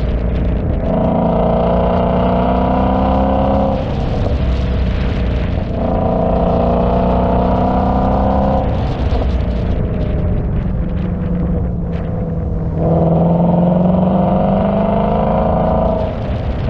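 Car engine pulling hard three times, its pitch rising slowly through each pull of about three seconds, with lower, rougher running in the pauses between.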